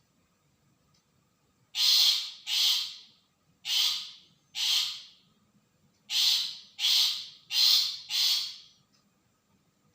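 Long-tailed shrike giving harsh, rasping calls: eight in all, in a pair, another pair, then a run of four, each about half a second long and fading off at the end.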